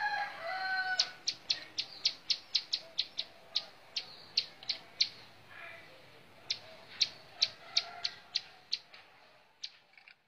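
Ciblek sawah, a small prinia, calling in a rapid run of short, sharp, high chirps, about three a second. The run breaks off briefly around the middle and then starts again.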